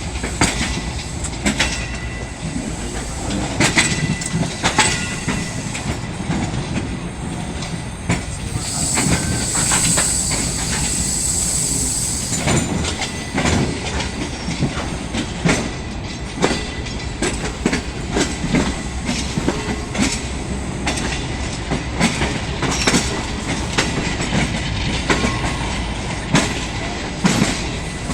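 Green Line Express passenger train pulling out of the station, its coaches' wheels clattering over rail joints in irregular knocks over steady rolling noise. About a third of the way in, a high-pitched sound rises above it for about four seconds.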